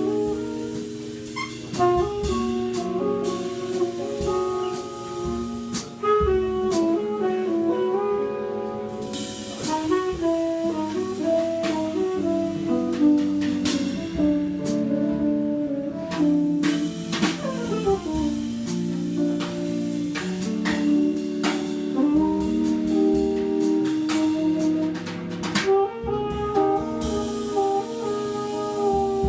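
A live jazz trio playing: tenor saxophone on a melody of held notes over guitar and a drum kit with cymbals.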